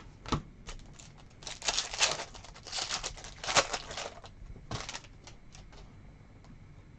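Trading cards being handled: a couple of sharp clicks and a stretch of crinkling, rustling noise as the cards slide against each other and the glossy card stock flexes, then quiet.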